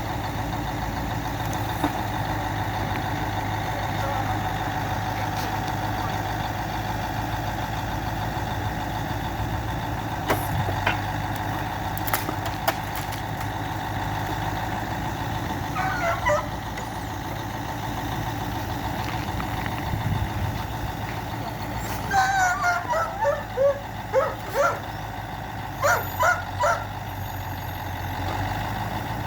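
A truck's engine idling steadily while firewood is unloaded, with a few sharp knocks partway through. A dog barks and yips in short runs, once midway and repeatedly near the end.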